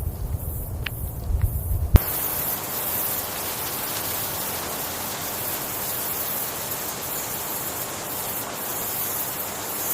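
Low rumbling with a few faint clicks, cut off by a sharp click about two seconds in, after which an even, steady hiss runs on.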